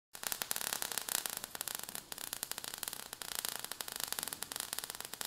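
Crackling static-like hiss, dense with rapid irregular clicks.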